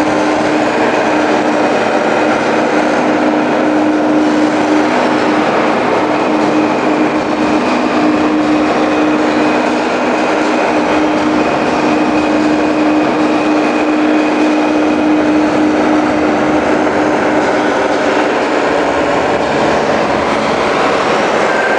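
Steady, loud vehicle running noise, a continuous rumble and hiss with a held droning tone.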